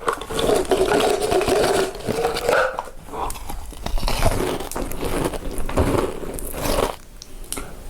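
A person biting into and chewing crunchy food, with a quick run of crunches.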